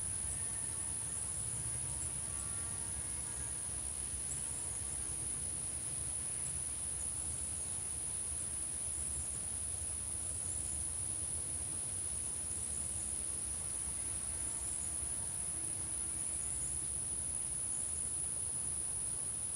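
Steady high-pitched insect chorus of crickets, one continuous trill with no breaks, over a low background rumble. Faint short high chirps are scattered through it.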